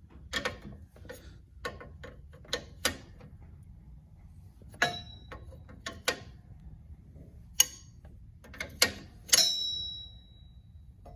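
A socket wrench working bolts on the tractor, heard as scattered sharp metal clicks and clinks. A louder, ringing metal clink comes near the end.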